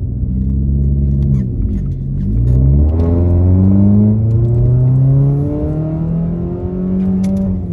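Straight-piped 2016 Ford Focus exhaust, muffler and resonator deleted, on a hard acceleration pull. The engine note climbs, drops back at upshifts about two seconds and five and a half seconds in, and climbs again each time.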